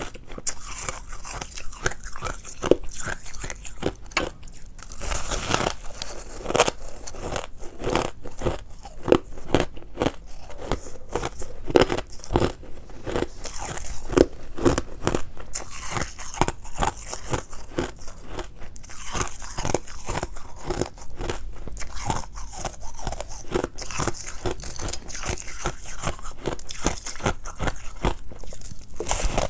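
A person biting and chewing ice, crunching continuously with many quick, irregular cracks and a few louder bites.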